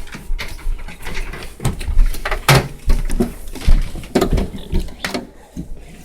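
Plastic toy horses and play pieces being handled and set down: irregular knocks, clacks and rustling.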